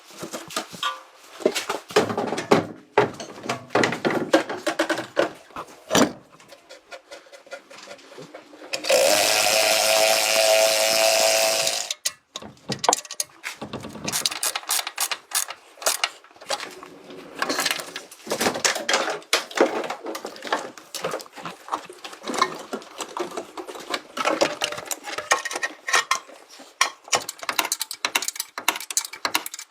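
Workshop tool sounds: repeated clicks, taps and clinks of hand tools on metal, with a power tool running steadily for about three seconds near the middle.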